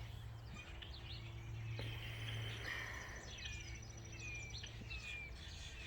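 Backyard birdsong: scattered chirps and short downward-sliding whistles from several small birds, with a fast high trill starting about two seconds in and lasting a couple of seconds, over a steady low hum.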